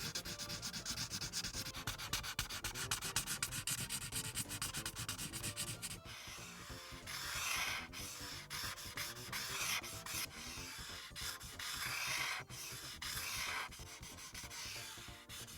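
Marker tip rubbing across paper as an area is coloured in. The first six seconds or so are rapid, short back-and-forth strokes; after that come longer, slower strokes.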